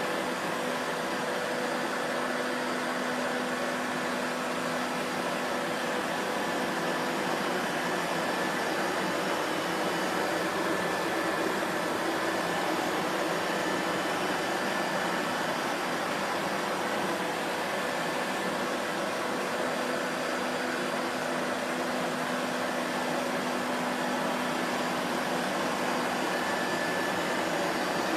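Vacuum cleaner running steadily: an even, unbroken motor noise carrying a few faint steady hums, with no change in pitch or level.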